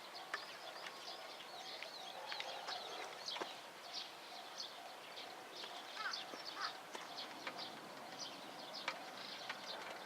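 Birds chirping in quick short calls, with a faint tone underneath that repeats evenly, a few times a second.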